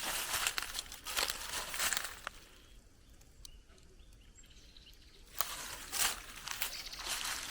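Footsteps crunching on a forest path, about two a second. They stop for about three seconds in the middle, then start again.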